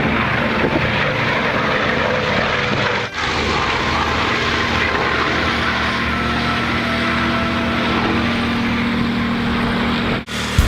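Propeller aircraft engine running steadily, a dense drone with a steady hum, broken briefly about three seconds in.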